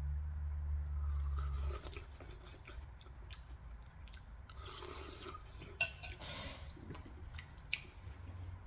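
Eating pumpkin soup: chewing, with a spoon clinking and scraping against the bowl in scattered small clicks and a few sharper ones. A low hum sounds for the first couple of seconds, then stops.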